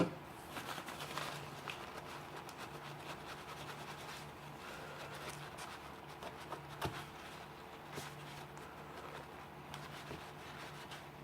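Handling of a Leatherman Wingman multi-tool's metal parts during disassembly: a sharp click at the start, then scattered small clicks and scratchy rubbing, over a low steady hum.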